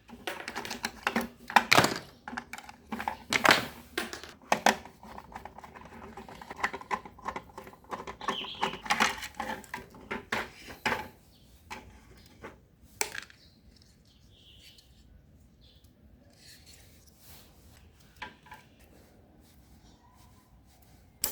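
Small hard objects being handled and knocked together in a dense run of clicks and clatter for about eleven seconds, then only a few scattered faint taps.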